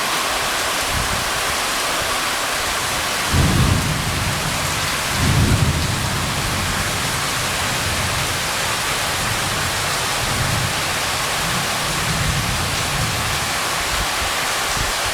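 Heavy rain falling steadily, a dense even hiss. Two short low rumbles rise above it, about three seconds in and again about five seconds in.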